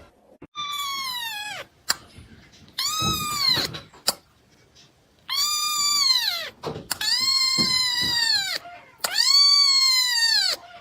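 A cat yowling five times in long, high-pitched, drawn-out calls, each rising and then falling in pitch.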